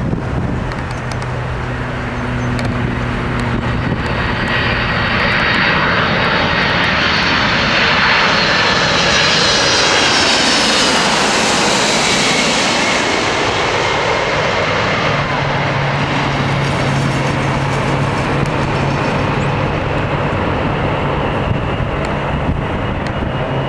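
Boeing 747-400 jetliner's four turbofan engines on landing, swelling as the aircraft approaches and passes close by, with a high whine that slides down in pitch as it goes past, then easing off as it moves away down the runway.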